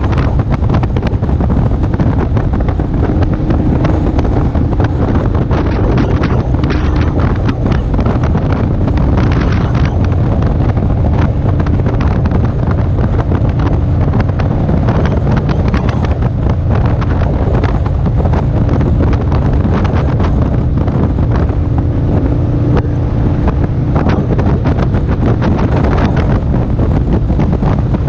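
Heavy wind buffeting the microphone of a camera riding on a moving motorcycle, over the steady hum of the motorcycle's engine at cruising speed.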